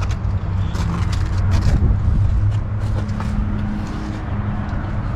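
A motor vehicle's engine idling steadily close by, with scattered light clicks and scuffs over it.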